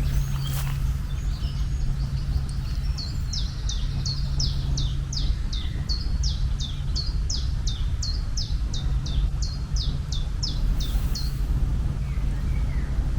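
A songbird singing a long series of high notes, each sliding downward, about two to three a second, starting faint and growing clearer, then stopping about two seconds before the end. Under it runs a steady low hum and rumble.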